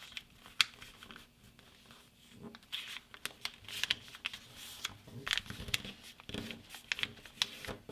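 A thickly layered sheet of A4 printer paper being folded in half and creased by hand: scattered crinkles and sharp paper clicks, sparse at first and busier from about two and a half seconds in.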